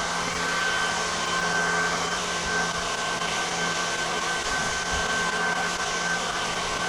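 A small motor running steadily, a constant hiss carrying a high whine and a low hum.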